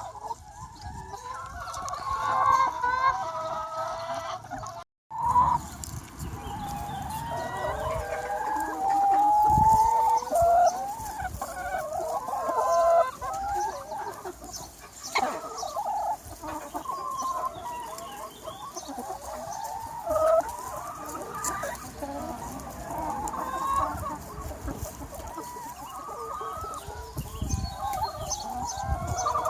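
A large free-range chicken flock clucking and calling, many hens overlapping without a break. There is a momentary gap about five seconds in.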